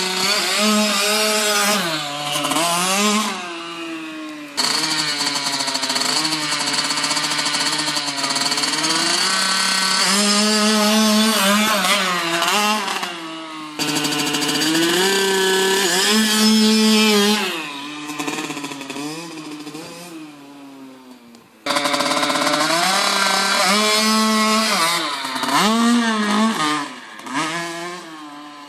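Motocross bike engine revving as it is ridden, its pitch rising and falling again and again with the throttle. The sound is broken by a few sudden cuts.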